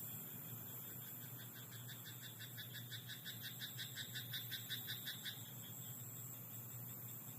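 A frog in a rice paddy croaking in a rapid run of pulses, about five a second. The call starts about a second in, grows louder, and stops about five seconds in.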